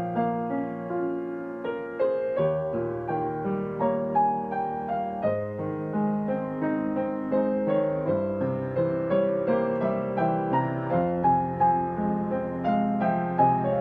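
Solo piano playing a melody over held chords in the lower register, note after note without a break.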